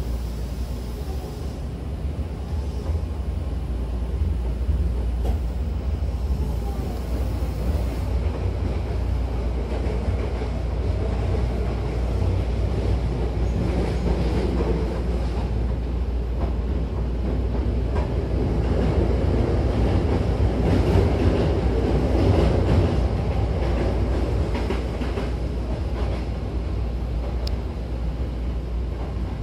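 Hankyu Kobe Line electric train running, heard from inside the passenger car: a steady low rumble with scattered clicks of the wheels over the rails, growing louder for a few seconds past the middle.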